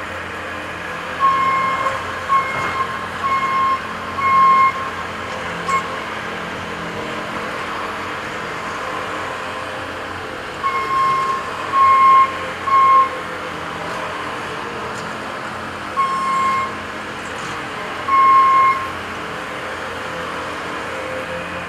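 Backup alarm on heavy equipment beeping about once a second in short runs that stop and start as the machine reverses, over the steady running of machine engines.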